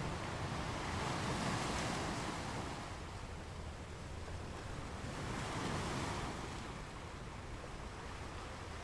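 Gentle ocean waves washing onto a sand beach, the surf swelling twice, about four seconds apart, over a steady rush.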